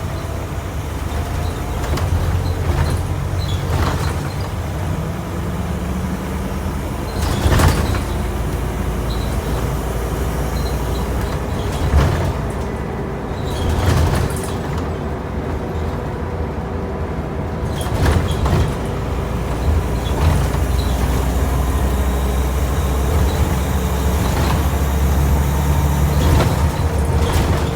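Scania N230UB OmniCity single-deck bus's five-cylinder diesel running under way, its engine note rising as it pulls away and climbs through the gears, with sharp knocks and rattles from the body every few seconds.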